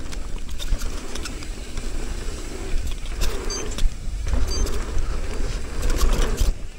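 Wind buffeting a helmet chin-mounted camera's microphone as a mountain bike rides a dirt jump trail, with tyres rumbling and the bike rattling and clicking over the ground.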